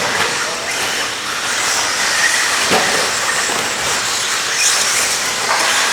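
Radio-controlled stadium trucks racing around the track, a steady hissing whine of their motors and tyres.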